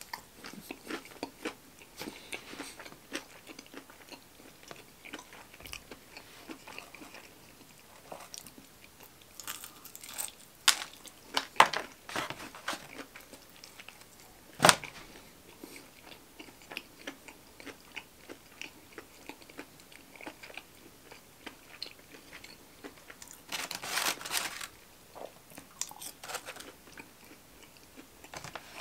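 Close-miked biting and chewing of breaded fried chicken fingers and fries: crunching, wet mouth smacks and scattered sharp clicks, with a brief louder rustly patch late on.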